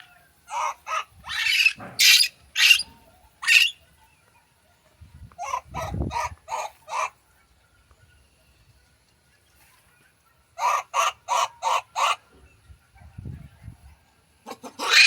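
A monkey's short, shrill repeated calls, given in three quick runs of about four to six calls each, with one louder rising call at the very end.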